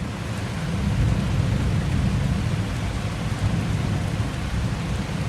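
Steady rain falling in a thunderstorm, with a low rumble of thunder underneath.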